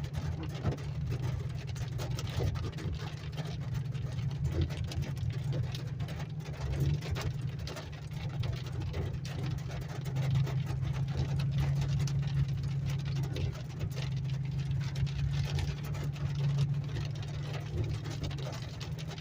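Steady engine and road drone heard inside a car's cabin, driving slowly on a hail-covered road, with many faint scattered clicks and ticks over it.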